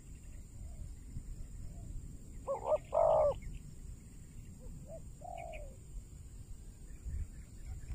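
Spotted dove cooing: a loud two-part coo about two and a half seconds in, then a softer single coo about five seconds in, with fainter coos near the start.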